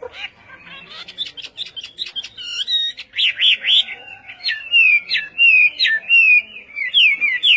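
A songbird singing a loud, varied song: quick clusters of short notes at first, then a run of loud, repeated sweeping whistles over the second half.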